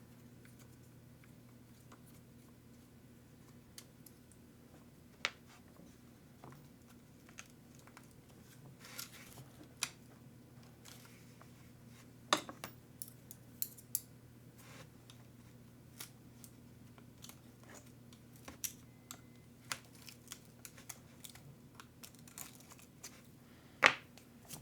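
Small plastic and metal parts of a 1/8-scale RC truggy and hand tools being handled on a desk: scattered clicks and taps with short rustles, over a faint steady hum. The sharpest clicks come about halfway through and just before the end.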